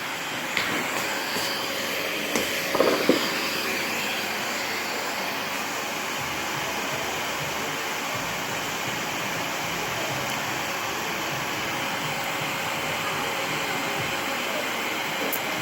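Vacuum cleaner running steadily, with a faint steady hum and a few knocks in the first few seconds, the loudest about three seconds in.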